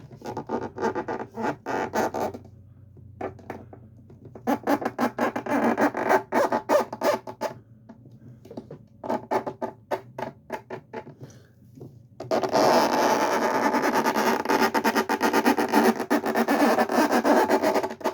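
Bare fingertips pressed hard and dragged across the surface of a 1970s piece of furniture, squealing and chattering in stick-slip. Short bursts of squeal come over the first eleven seconds or so, then one long unbroken squeal over about the last six seconds.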